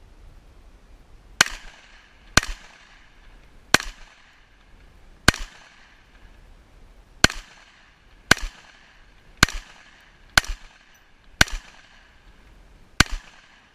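Ten rifle shots from a 16-inch .458 SOCOM AR-type rifle, fired one at a time at uneven intervals of about one to two seconds. Each is a loud sharp crack followed by a short fading echo.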